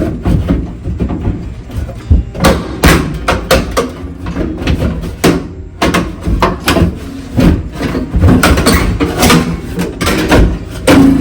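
A rapid, irregular series of knocks and thuds from hand tools striking and prying at a washing-machine outlet box to work it loose from the wall.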